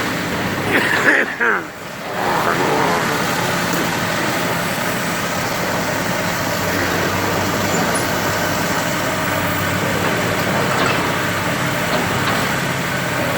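An engine running steadily at an even pitch, with brief voices in the first two seconds.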